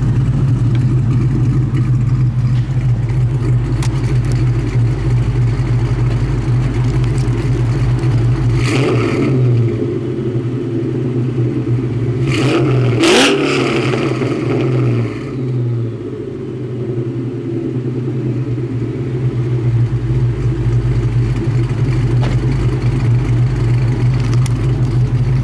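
2001 Mustang GT's 4.6-litre V8, on Comp Cams 262 camshafts and a Bassani header, catless X-pipe and unbaffled catback exhaust, idling, then revved sharply twice around the middle before settling back to idle.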